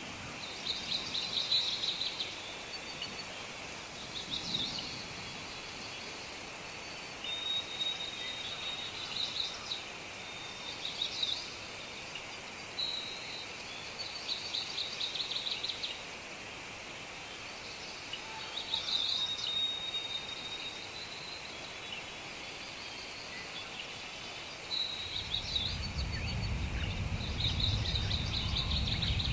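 Wild songbirds calling, a string of short high trills and chirps every second or two over a steady high hiss. About 25 seconds in, a low rumble comes in under them.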